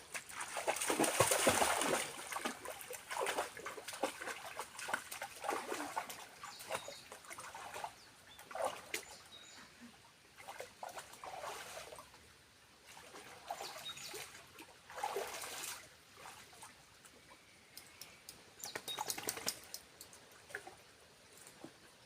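Irregular splashing and rustling in short bursts, loudest about a second in, with quieter spells between.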